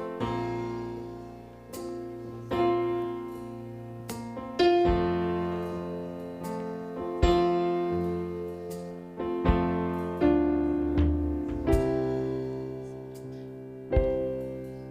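Slow, gentle piano music: full chords struck about every two seconds, each left to ring and fade before the next.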